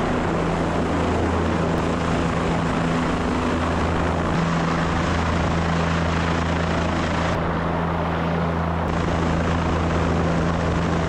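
Helicopter running steadily while hovering with a sling load, a constant low rotor and turbine drone.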